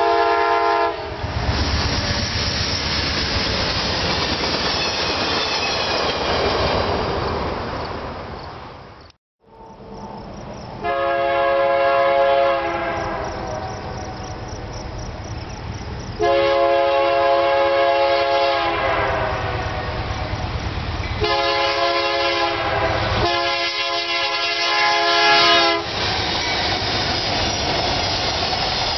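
Freight train passing: a locomotive horn chord cuts off about a second in, then the steady rumble of rolling freight cars. After a break, an approaching diesel locomotive sounds four horn blasts, and the train is rumbling past close by near the end.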